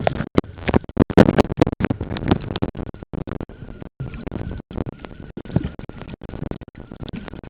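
Handling noise from a compact camera sealed in a plastic waterproof pouch: the plastic rubbing and scratching against the microphone, with many irregular clicks and knocks and brief dropouts, busiest in the first two seconds.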